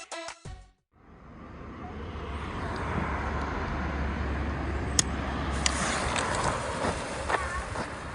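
Electronic music cuts off just after the start, then after a second of silence outdoor background noise fades in: a steady low rumble with a hiss over it, and a few sharp clicks in the second half.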